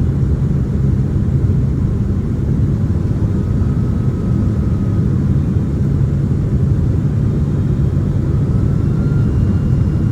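Boeing 767-300ER cabin noise: a steady low rumble of the engines and airflow, heard from a passenger seat.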